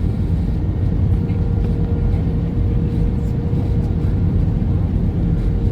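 Steady low rumble of road traffic or a running vehicle, with a faint constant hum above it.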